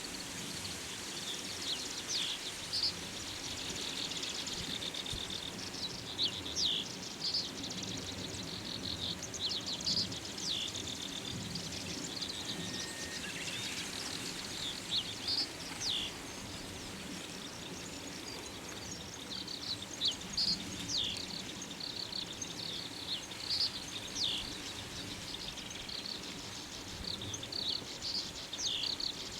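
Common reed bunting singing: short phrases of a few high, chirpy notes, repeated every couple of seconds, over a steady background hiss.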